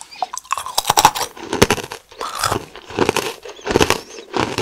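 Close-miked crunchy chewing of a mint-chocolate-coated pretzel, a quick irregular run of sharp crunches.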